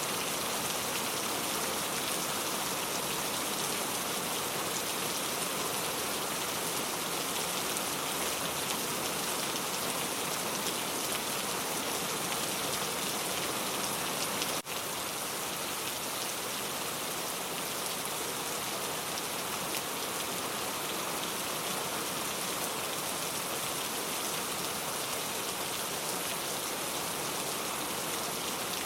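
Steady rain ambience: an even hiss of rainfall on surfaces, with a brief drop in level about halfway through.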